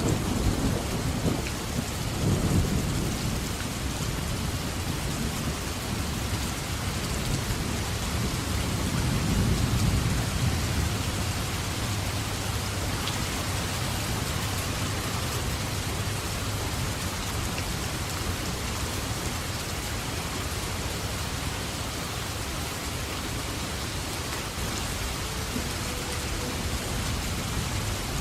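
Heavy, steady rain falling in a forest, with rolling rumbles of thunder in the first ten seconds or so that fade into a steady low rumble under the rain.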